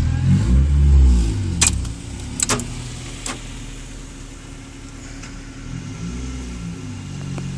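Car engine running, loudest in the first second and a half, then settling to a quieter steady note that swells again near the end, with three sharp clicks in between.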